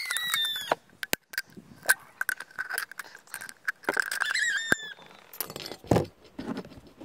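High-pitched squeals and sharp clicks of hand tools cutting an aluminium pop can. One squeal, falling slightly in pitch, comes right at the start and a wavering one about four seconds in, with separate clicks and snaps between them.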